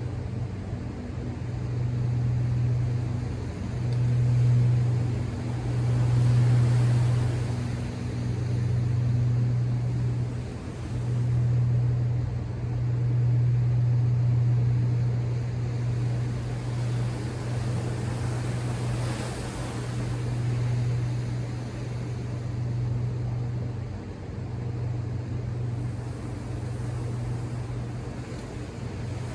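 Ocean surf washing ashore, under a steady low rumble that swells and eases every couple of seconds.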